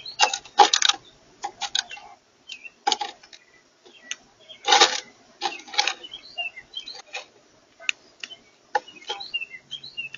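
Irregular sharp clicks and taps, some in quick clusters, with small birds chirping faintly in the background.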